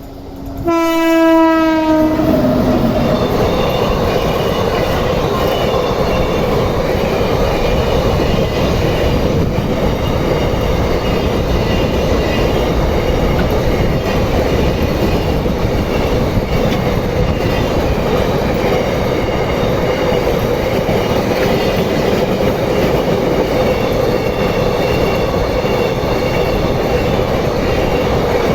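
Train horn sounding once for about a second and a half, dropping in pitch as it ends. The train then passes close by at speed, with a loud, steady rumble and clatter of wheels on rail.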